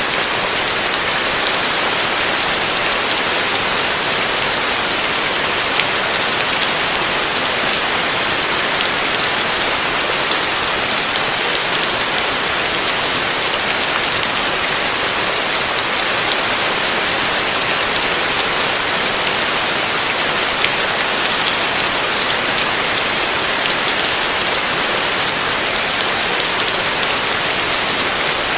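Heavy rain falling on a roof: a steady dense hiss with fine drop ticks throughout.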